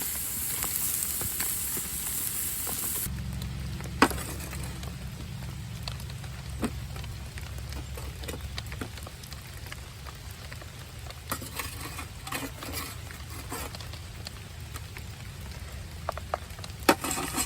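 Potatoes frying in a pan on a grill, a steady sizzle that cuts off abruptly about three seconds in. After that, a low rumble with scattered clicks and knocks, the loudest a sharp knock about four seconds in.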